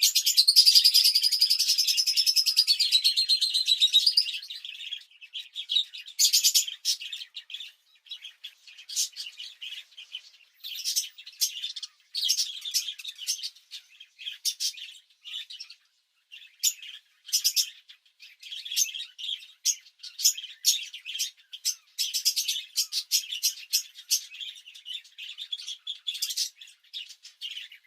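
Songbirds chirping and singing: a fast, high trill for the first four seconds, then many short, high chirps and twitters in quick runs with brief gaps.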